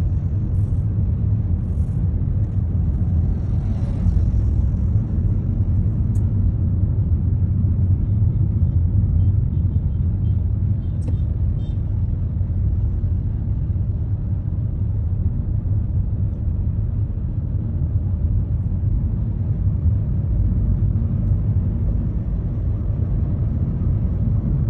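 Steady low rumble of a road vehicle in slow traffic, strongest in the bass, with faint higher noises now and then.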